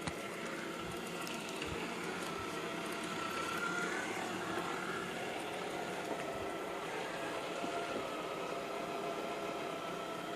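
iClebo Arte robot vacuum running while vacuuming sofa upholstery: a steady motor hum with a whine that wavers and rises briefly about three to four seconds in, and a few faint clicks.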